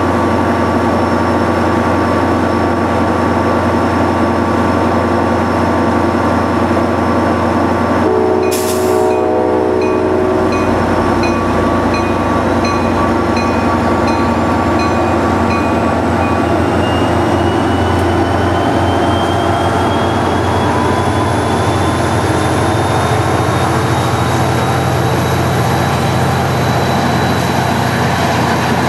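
Commuter train at a station platform: a steady low hum. About a third of the way in come a brief hiss and a short horn-like note, then a faint ding repeating about once a second for several seconds. After that a thin whine rises steadily in pitch as the train's traction motors pick up speed.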